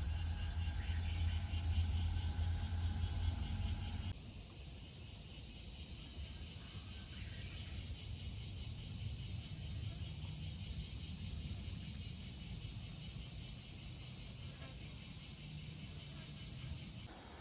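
A low vehicle rumble for the first four seconds or so, then an abrupt change to steady outdoor ambience with a high, fast-pulsing chirr of insects.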